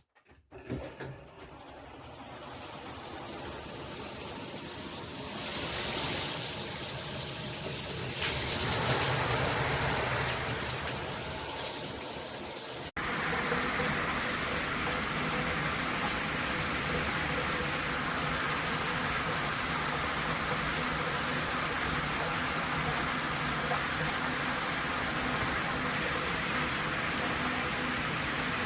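Water spraying from a Hibbent all-metal shower head. It builds over the first few seconds and then runs steadily, with a brief sharp dropout about 13 seconds in.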